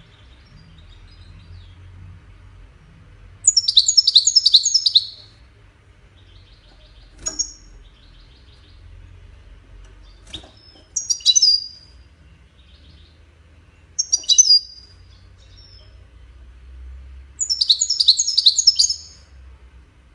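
European goldfinch singing in bursts of rapid, high twittering trills. Four loud phrases come with quieter runs of notes between them, and there are two short sharp clicks.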